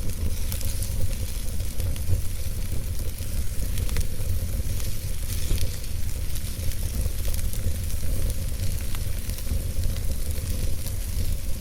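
Wood fire burning in a fireplace: a steady low rumble and hiss with many small, irregular crackles and pops.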